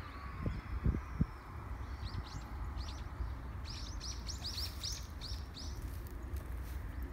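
A small bird calling in a quick run of short, high chirps, starting about two seconds in and coming thickest in the middle. Under it runs a low outdoor rumble, and a few low thumps come near the start.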